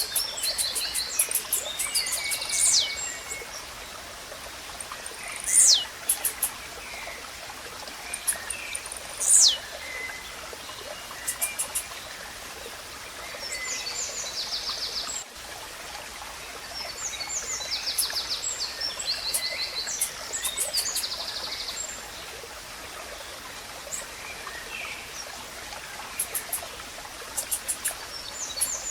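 Blue-black grassquits and other birds singing over a steady background of running water and insects: repeated high buzzy trills and chips, with two loud sharp downward-sliding whistles about 6 and 9 seconds in.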